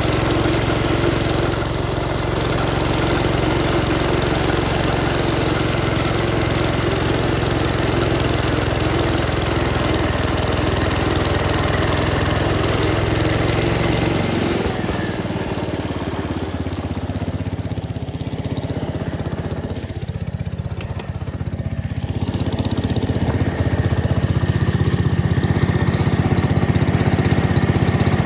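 Gravely Commercial 10A walk-behind tractor's engine running steadily while powering a Dogeater snowblower. The sound grows duller and a little quieter about halfway through, then comes back up near the end.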